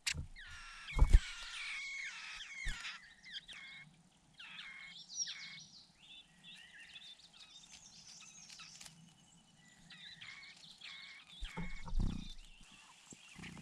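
Birds chirping: a busy run of short, high calls that rise and fall, typical of a chick begging as the parent bird comes to the nest. A few sharp knocks come through, the loudest about a second in.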